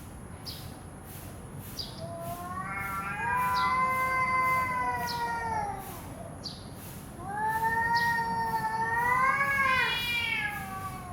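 Cats caterwauling in a fight: two long, drawn-out angry yowls. The first rises and then falls away; the second wavers up and down and tails off near the end.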